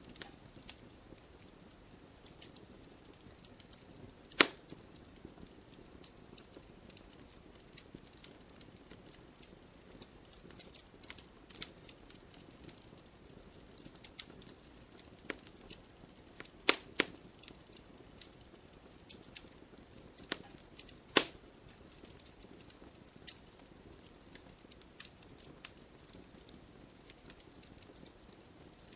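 Wood fire crackling in a fireplace: a soft steady hiss of burning with irregular small crackles and occasional sharp pops, the loudest about four seconds in, around seventeen seconds and around twenty-one seconds.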